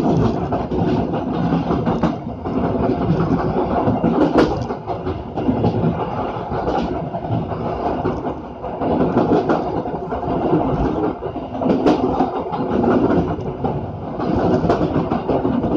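Passenger train running along the track, heard from on board: steady rumble of wheels on rail with repeated clicks and clatter over the rail joints.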